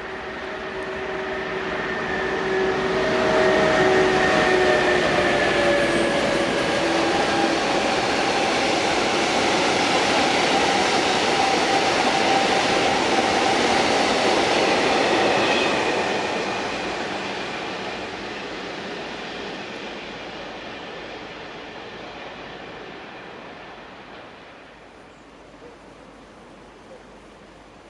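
A train passing by: it grows louder over the first few seconds, runs loud and steady for about twelve seconds, then fades away. Several pitched tones slide down during the first seven seconds.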